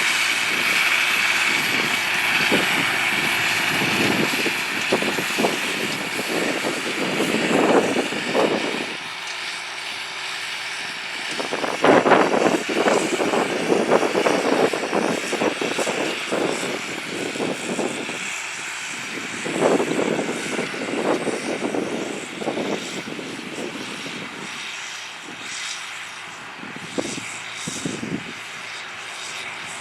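John Deere 8300 tractor's diesel engine running as it pulls a cultivator. Its rumble swells and fades unevenly and grows fainter toward the end.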